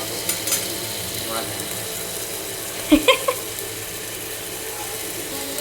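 Food frying in a pan with a steady sizzle. Three quick sharp clicks, the loudest sounds, come about three seconds in.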